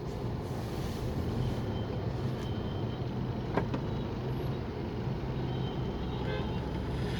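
Steady running noise of a moving motor vehicle, with one short click about three and a half seconds in.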